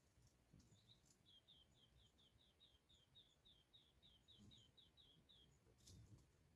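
Faint, high-pitched trill of about twenty short, even chirps, roughly four a second, from a small background bird, over soft low rustling.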